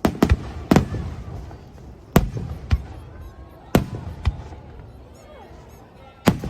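Aerial fireworks shells bursting in irregular succession, about eight sharp booms, each followed by a rolling echo.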